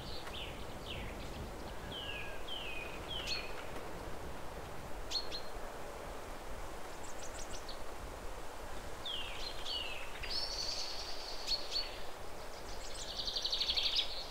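Small birds chirping: short falling chirps in irregular series, with a buzzy trill near the end, over a steady background hiss.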